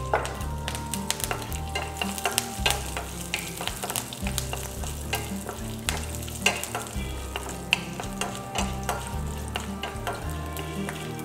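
Curry leaves, garlic, ginger and lentils sizzling and crackling in hot groundnut oil in a stainless steel pan, stirred with a wooden spatula. The dals are frying until they turn light brown.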